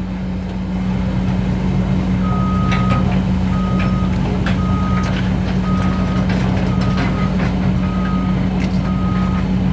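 Heavy dump truck's diesel engine running steadily while its reversing alarm sounds a single-pitched beep about once a second, starting about two seconds in: the truck is backing up.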